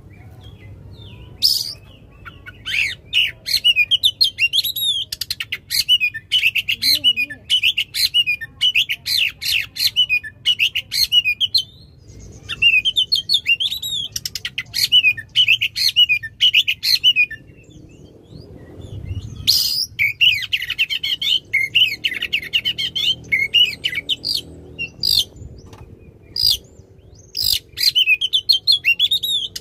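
Oriental magpie-robin (kacer) singing loudly in long, rapid phrases of whistled notes mixed with sharp clicks. It comes in four runs with short pauses between them.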